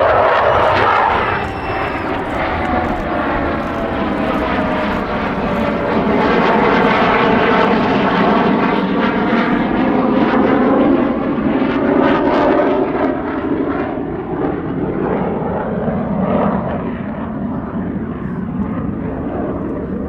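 CF-18 Hornet fighter jet's twin General Electric F404 turbofan engines, a loud continuous jet roar during a display pass, with a faint tone falling over the first several seconds and a sweeping, phasing character as the jet moves.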